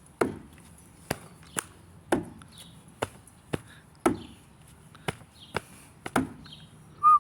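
Hands clapping and slapping out the rhythm of a tune, about ten sharp strokes in a repeating pattern. Every third stroke is a deeper thump, followed by two lighter claps. Faint bird chirps sound in the background.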